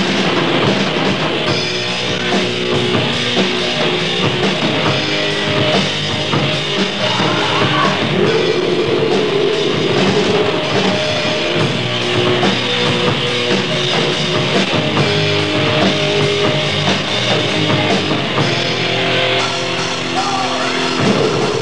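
Loud, distorted grindcore-style rock music: guitar and drum kit playing as one dense, continuous wall of sound.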